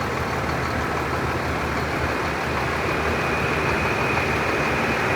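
Sutphen fire engine's diesel engine idling steadily, with a thin high whine that grows stronger about halfway through.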